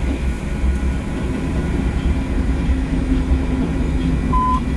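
BNSF freight train's diesel locomotives rumbling steadily as the train rolls past. Two short, steady high beeps come near the end.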